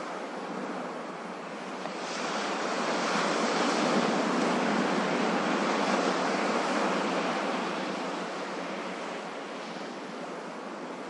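Ocean waves washing in: a steady hiss of surf that swells about two seconds in, peaks, and ebbs away again near the end.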